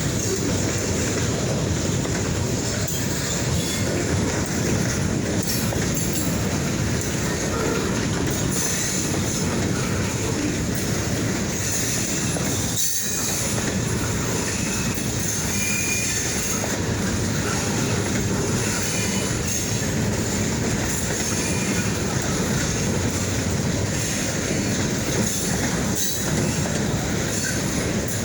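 Freight train rolling past on the rails: a steady, loud rush of wheels on track with faint wheel squeal now and then.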